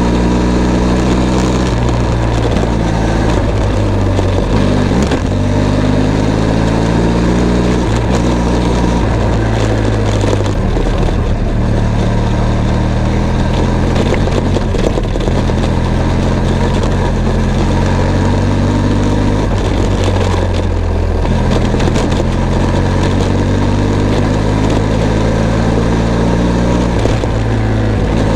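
Benelli TRK 502 X parallel-twin engine running as the motorcycle is ridden, its note shifting up and down several times with throttle and gear changes.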